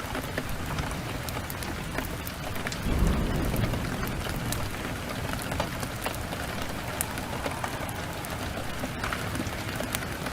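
Steady heavy rain with scattered sharp ticks, and a brief low rumble of thunder about three seconds in.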